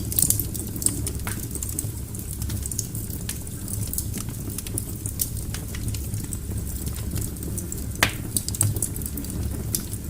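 Wood fire burning in a fireplace: a steady low rumble of flame with irregular sharp crackles and pops from the burning logs, one louder pop about eight seconds in.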